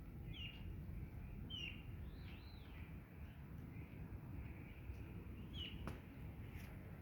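Small birds chirping: a run of short, quick high chirps, several sliding down in pitch, over a steady low background rumble. A single sharp click about six seconds in.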